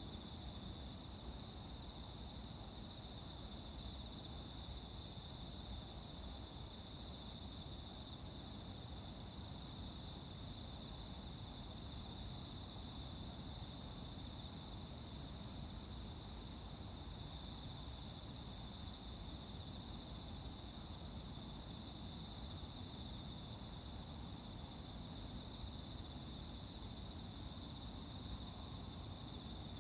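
Insects singing at dawn in a steady, unbroken chorus: two constant high-pitched trills, with a faint pulsing chirp between them, over a low background rumble.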